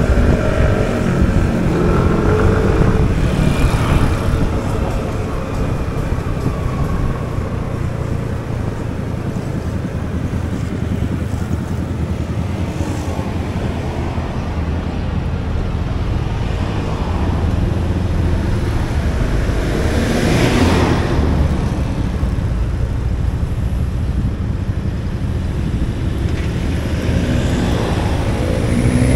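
Motorbike scooter riding through traffic: its small engine runs under a steady rumble of road and wind noise, with other vehicles passing, the loudest about 20 seconds in.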